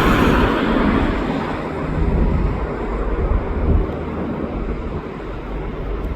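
Airliner passing overhead, the engine noise loudest at the start and fading away, with wind buffeting the microphone.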